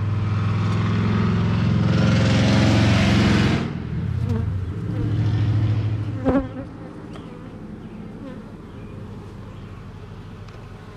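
Swarm of defensive honeybees buzzing loudly close around the microphone as they fly at the beekeeper, a sign of an agitated, aggressive colony. About three and a half seconds in the loudest part cuts off suddenly and the buzz fades; a single sharp knock comes a little after six seconds.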